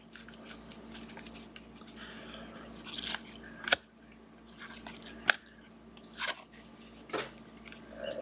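Football trading cards and their plastic wrappers being handled: soft rustling and sliding, broken by several sharp snaps.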